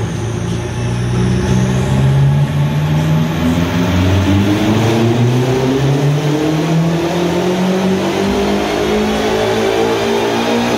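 Tuned BMW M5's twin-turbo V8 under full throttle on a chassis dyno, pulling through the rev range in gear. Its pitch climbs steadily from about two seconds in until the end.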